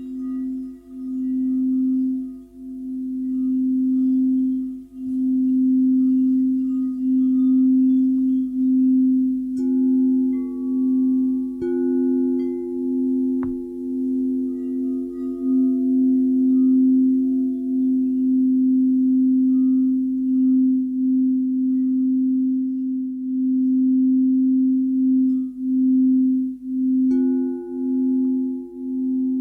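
Singing bowls ringing in long, pure, sustained tones that swell and fade in a steady wobbling pulse. A new, higher bowl tone is struck in about ten seconds in, another a couple of seconds later, and another near the end.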